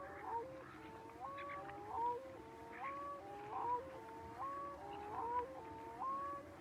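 Birds calling: a run of short whistled notes, each stepping up in pitch, repeated about every three-quarters of a second by more than one voice.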